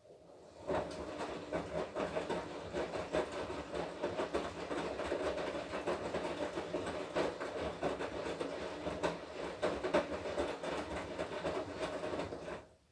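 Washing machine drum turning during the wash, laundry and water tumbling inside with a steady clattering rattle. It starts about a second in and stops abruptly near the end, one turn of the drum between pauses.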